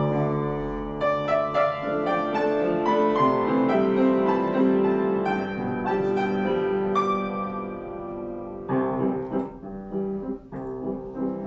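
Piano-style keyboard playing the instrumental introduction to a sung waltz, with chords and melody starting suddenly and running steadily.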